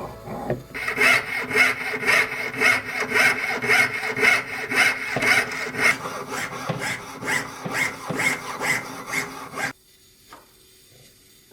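Jeweler's saw cutting metal by hand in steady back-and-forth strokes, about two a second. It stops suddenly near the end.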